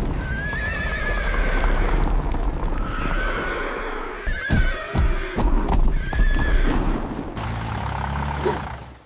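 A horse whinnying several times in wavering calls over a steady low rumble, with a few sharp knocks around the middle.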